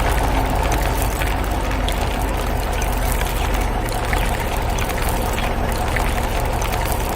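Steady low engine rumble of heavy machinery under a constant watery hiss, without a break.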